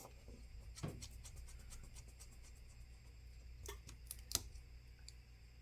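A few small, sharp clicks of a precision screwdriver and small metal parts against a phone's internal frame as its screws are put back in. The loudest click comes a little past four seconds in, over a faint low hum.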